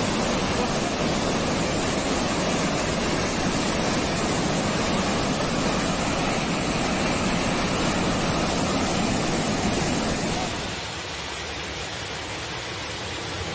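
Rushing, turbulent water: a loud, steady noise without distinct strokes that eases a little about ten seconds in.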